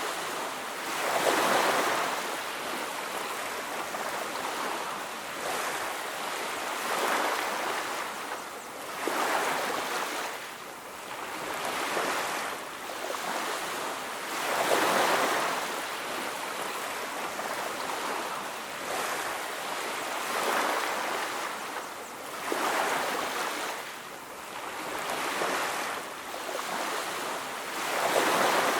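Ocean waves washing onto a beach, a steady hiss of surf that swells and falls back with each wave, roughly every two to five seconds.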